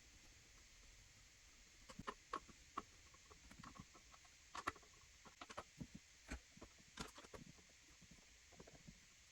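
Faint, irregular small clicks and taps of hands handling computer parts and packaging. They start about two seconds in, and the sharpest come near the middle.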